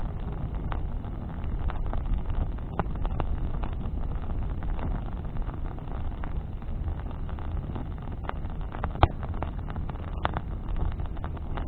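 Bonfire of burning branches crackling: scattered sharp pops and snaps over a steady low rumble, with one louder pop about nine seconds in.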